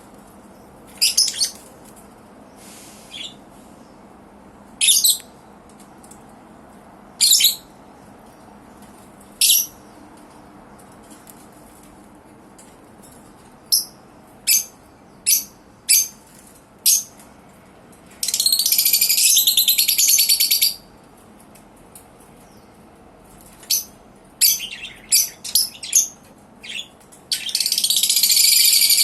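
Lovebirds giving short, sharp, high-pitched chirps, singly at first and then in a quick run of five. Twice the chirps break into a couple of seconds of rapid, harsh chattering, the second bout near the end.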